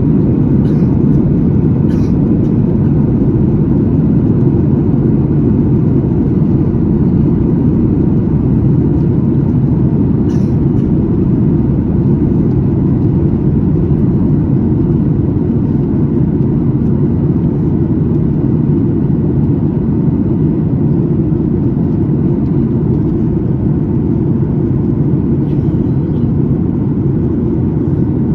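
Steady low rumble of engine and airflow noise inside the cabin of a Boeing 737-9 MAX in flight, with a couple of faint ticks.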